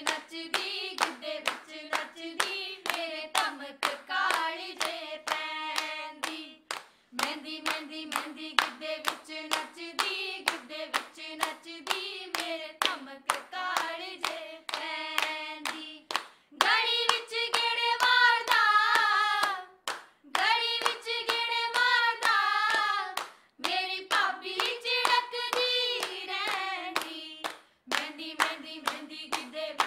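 Women singing a Punjabi wedding folk song to a steady beat of hand claps and a dholak, pausing briefly between lines.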